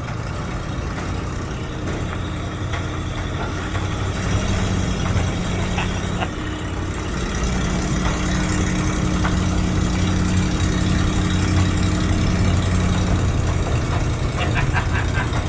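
Swapped-in Ford 302 small-block V8 running steadily as the old Divco bread truck drives, getting somewhat louder after about four seconds. An exhaust leak is audible, as the occupants noted on this drive.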